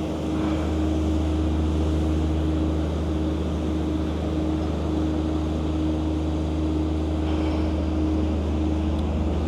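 A steady low engine drone with a constant hum and an even wash of background noise, unchanging throughout.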